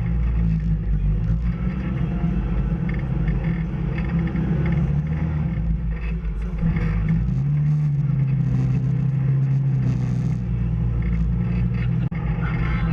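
Off-road vehicle's engine running under way. Its pitch drops and holds lower for a few seconds past the middle, then rises again, with scattered knocks and rattles.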